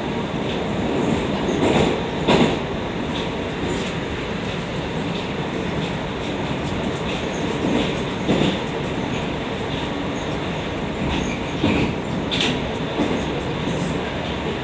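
Moscow Metro 81-760/761 "Oka" train running at speed between stations, heard from inside the car: a steady rumble and hiss, with three pairs of clacks as the wheels pass over rail joints.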